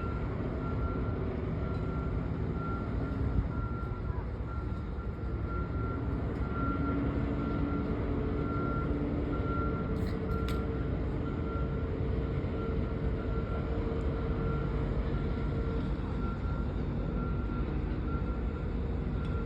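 Boat's engine running with a steady low rumble as the vessel comes alongside a pier, its note getting stronger about a third of the way in. Over it a high electronic warning beep repeats steadily, roughly every two-thirds of a second, with a couple of sharp clicks about halfway through.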